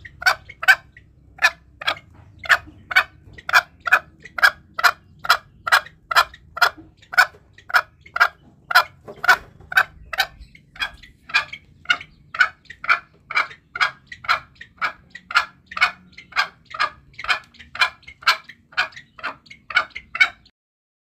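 Green junglefowl calling: short, sharp clucks repeated about twice a second in a steady run, cutting off abruptly near the end.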